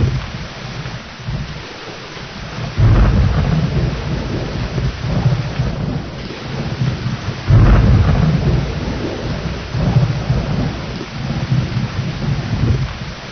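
Steady heavy rain with rolling thunder in a thunderstorm. A loud thunderclap breaks in about three seconds in and another just past halfway, each rumbling on for several seconds.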